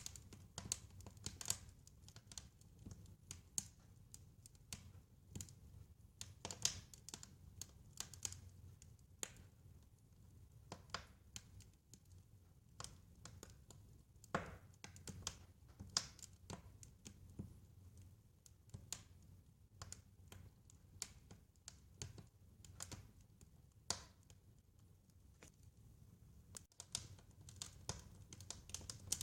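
Wood fire crackling, with irregular snaps and pops, some louder than others, over a soft low rumble.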